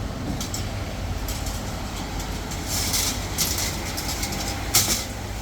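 Factory machinery running with a steady low rumble, with a few short hissing sounds in the second half.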